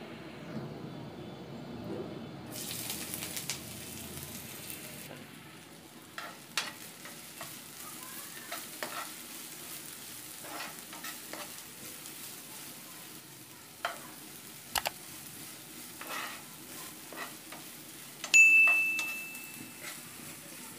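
Sliced onions sizzling as they fry in hot mustard oil in a non-stick pan, with a spoon clicking and scraping against the pan as they are stirred. Near the end a single loud bell ding rings out and fades.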